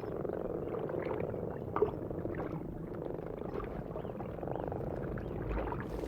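Breeding chorus of many alpine frogs croaking at once at a spawning site, a dense, steady mass of overlapping calls, with one short click about two seconds in.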